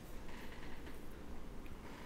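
Faint close-miked chewing and mouth sounds from eating seafood, with a few soft clicks.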